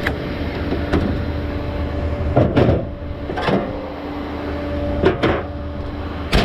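Vehicle engine running steadily, heard from inside the cab while driving, with about six sharp knocks or rattles at irregular moments.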